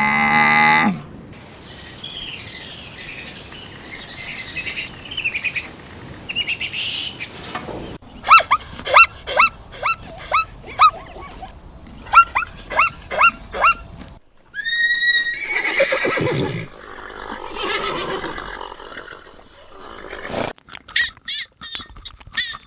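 A string of animal calls: the end of a cow's moo, then high chirping, then a run of about a dozen short, sharp downward-sliding chirps, then a horse whinnying, starting high and sliding down.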